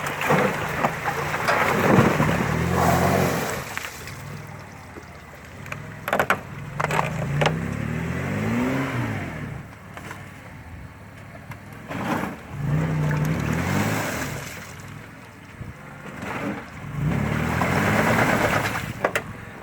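Mitsubishi Pajero 2 on road tyres, stuck after breaking through ice into mud: the engine revs up in four rising bursts as the wheels spin and churn mud and broken ice. A few sharp knocks come in between the bursts.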